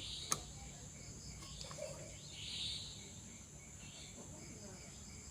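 Crickets chirping steadily in the background, a high continuous trill with regular faint pulses about three a second. A single sharp click comes shortly after the start, and a soft breathy hiss about two and a half seconds in.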